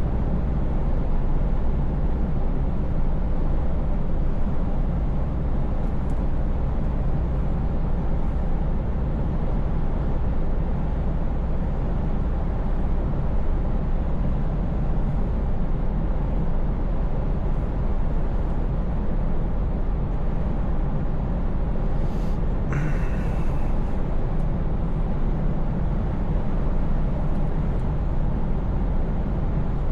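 Scania V8 truck engine and road noise: a steady, low drone while cruising. About three-quarters of the way through comes a brief hiss with a short, thin falling tone.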